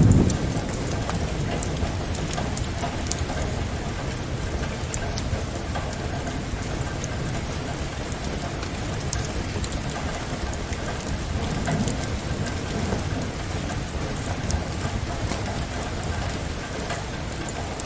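Steady rain, mixed with the scattered small crackles of a wood fire in a fireplace. A low rumble of thunder fades right at the start and another swells about twelve seconds in.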